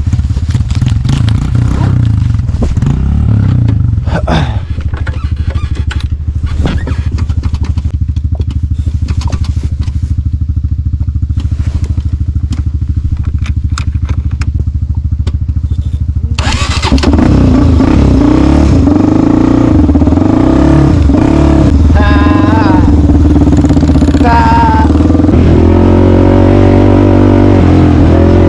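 Off-road vehicle engine idling with a rapid, even putter. About two-thirds of the way through it gets louder and revs up and down with the throttle.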